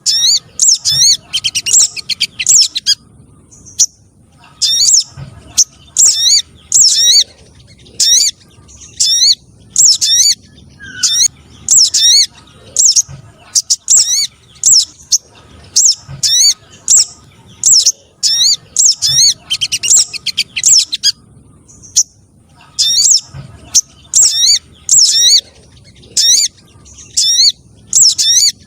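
Bird-lure call recording of spiderhunters: bursts of high, thin chirping notes in quick runs, repeated phrase after phrase with short pauses between.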